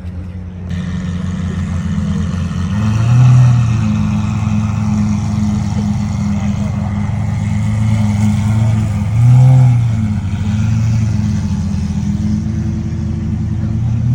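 Car engine running steadily, with brief revs about three seconds in and again about nine seconds in.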